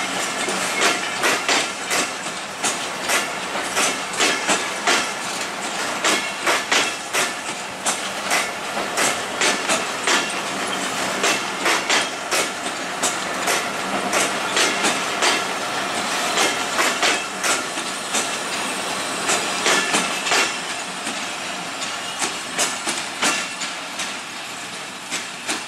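Passenger coaches of an express train passing at speed, their wheels clattering over the rail joints in a rapid, uneven series of clicks over a steady rushing noise. The clatter thins and grows quieter near the end as the last coach goes by.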